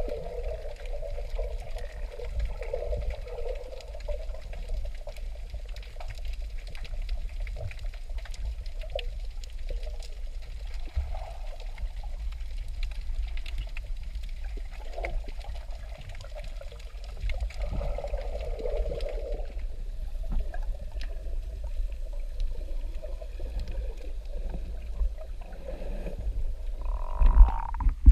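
Water sloshing and trickling over a steady low rumble.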